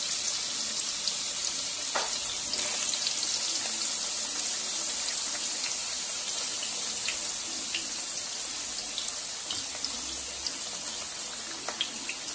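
Bottle gourd slices deep-frying in hot oil in a pan: a steady sizzling hiss with scattered crackles and pops, easing slightly over the span.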